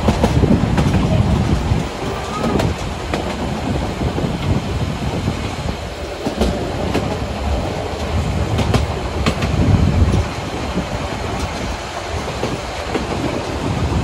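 Narrow-gauge Harz railway train running on the line, a heavy rumble with irregular sharp clicks of the wheels over the rail joints.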